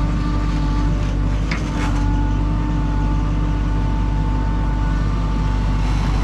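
JCB 3DX backhoe loader's diesel engine running steadily under work, with a steady whine over the engine hum and a short higher sound about a second and a half in.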